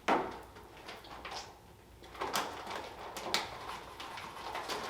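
Crisp, hollow blueberry wafer stick crunching: a sharp snap as it is bitten right at the start, then scattered crackly crunches as it is chewed.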